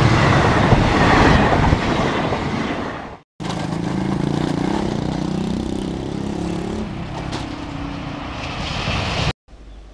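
A diesel-hauled train running: rail noise and a steady low engine drone. The sound cuts out abruptly about three seconds in, then resumes with the locomotive's low drone.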